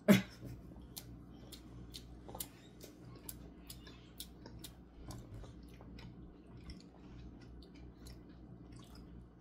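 People chewing bites of crostata pastry: faint wet mouth clicks, roughly two a second, after one short loud voice sound right at the start.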